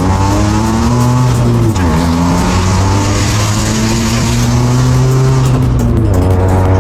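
Turbocharged single-rotor rotary engine in a Mazda Miata running hard at high revs under load on a dyno, its pitch dipping briefly about two seconds in before climbing and holding again. A loud hiss runs over the engine note through the middle.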